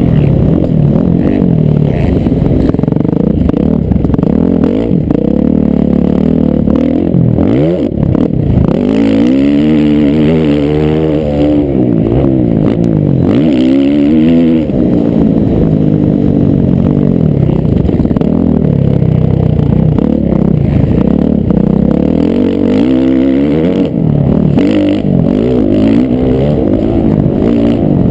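Several motocross bikes racing, their engines revving up and dropping back over and over as the riders work the throttle and shift through the gears. The sound is loud and continuous, with the rising and falling notes of different bikes overlapping.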